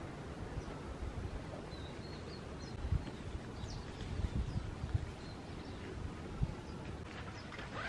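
Outdoor ambience: a low rumble of wind buffeting the microphone, with a few soft low bumps and some faint, short high bird chirps in the first half.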